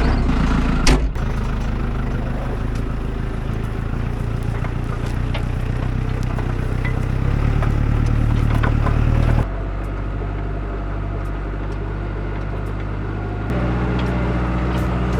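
Tractor engine running steadily with light clattering over it. The sound drops abruptly about nine and a half seconds in and steps back up near the end.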